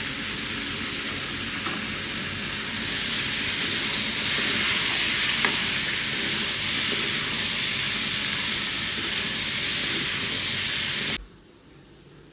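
Food frying in a pan, a steady sizzle that grows a little louder about three seconds in and cuts off abruptly near the end.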